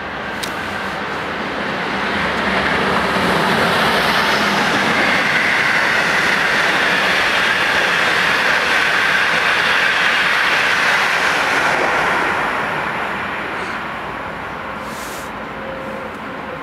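Locomotive-hauled passenger train passing through the station: a steady rolling rush of wheels on rails that swells over a couple of seconds, stays loud for about eight seconds, then fades away.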